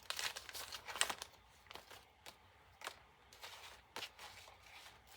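Paper and fabric pages of a handmade journal rustling and crinkling as they are handled and flipped. The rustling is busiest in the first second or so, then thins to a few scattered soft rustles.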